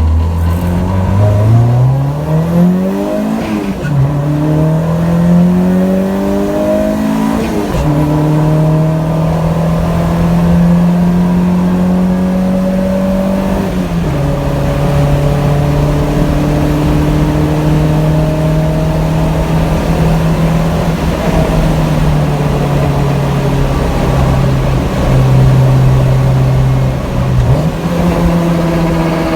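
1992 Honda Civic with an HKS Hi-Power exhaust accelerating through the gears: the engine note climbs, drops at two upshifts in the first eight seconds, then settles into a steady cruise with a brief dip in revs near the end.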